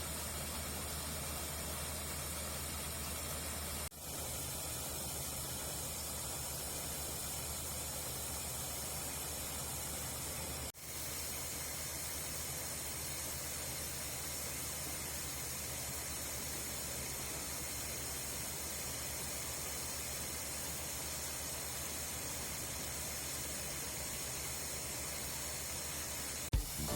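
Corn combine harvester running steadily, heard as an even hissing machine noise with a low hum underneath, cut off briefly twice.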